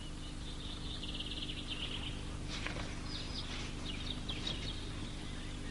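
Small birds chirping and trilling in the background: a quick trill, then scattered short chirps, over a steady low hum.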